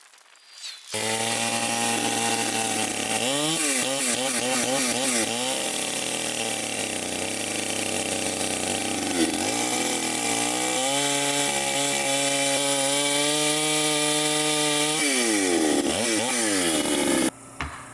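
Circle sawmill running through a cut, its steady machine note wavering and dipping as the blade takes the load. The sound cuts in abruptly about a second in, falls in pitch near the end, then cuts off suddenly.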